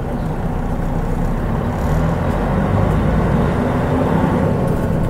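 Mitsubishi Fuso Aero Star KL-MP37JK bus's turbocharged 6M70 straight-six diesel engine running under way, heard from inside the bus, with road noise. It grows slightly louder about two seconds in.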